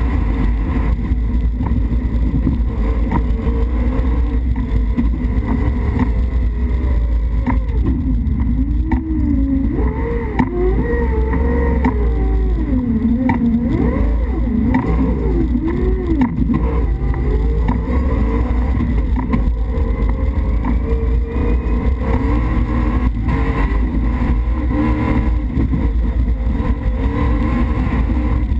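Toyota rally-raid car's engine heard from inside the cockpit while driving, over a heavy low rumble. From about eight seconds in, the engine note rises and falls repeatedly for several seconds as the driver works the throttle, with occasional sharp knocks.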